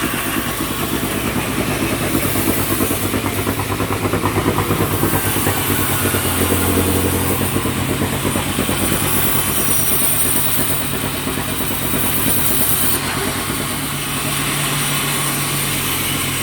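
Sawmill engine running steadily, its note dropping about six seconds in and rising again near the end.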